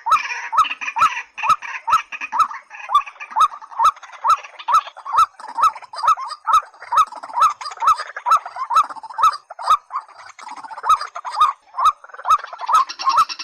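Calls of rails (white-breasted waterhen and watercock): a steady series of short, hollow repeated notes, about two to three a second. Richer, denser calling comes at the start and again near the end. A regular sharp ticking runs alongside.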